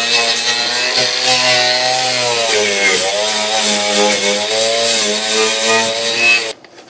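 Power tool spinning a wire wheel against undercoating on a car's underbody, the motor's pitch dipping and recovering as it bites, over a steady scratchy hiss; it stops suddenly near the end. The undercoating is not coming off well with the wire wheel.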